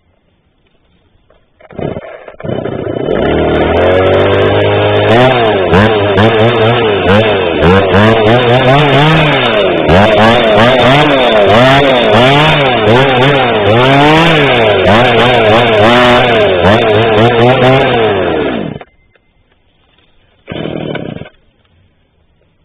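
Cold two-stroke chainsaw starting and running, the throttle blipped repeatedly so the engine rises and falls about once a second, then shut off suddenly. The saw is a little cold-blooded.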